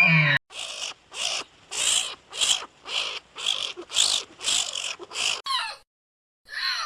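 A bird giving a run of about nine short, harsh calls, roughly two a second, then two shorter calls that fall in pitch.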